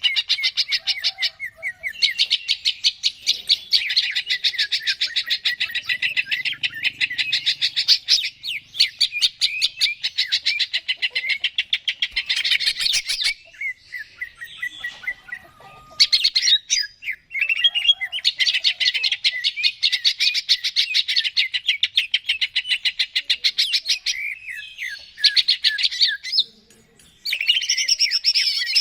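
Cucak ijo (green leafbird) singing in long, fast chattering phrases of rapidly repeated high notes, with a few short pauses between phrases.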